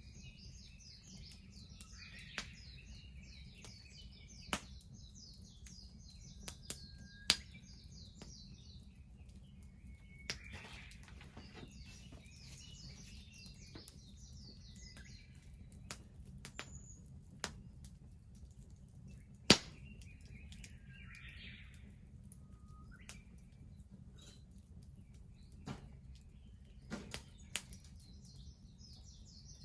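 Wood bonfire crackling with a dozen or so sharp, irregular pops, one much louder near two-thirds of the way through, over a low steady rumble. Songbirds trill and chirp at several points.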